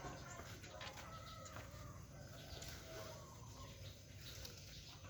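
Faint, scattered bird calls over a steady low background noise.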